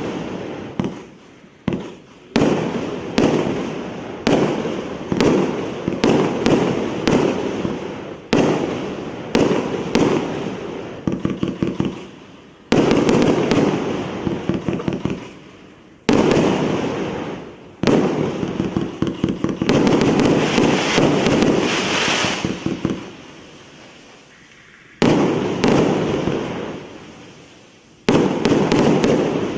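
Multi-shot firework cake (the 348-shot "Prezident" battery) firing shot after shot, each sharp report followed by a fading noisy tail. Some shots come in quick volleys, with short pauses between groups.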